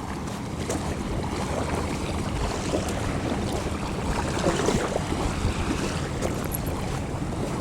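Wind buffeting the microphone over water lapping at the shore, with a faint steady low hum beneath.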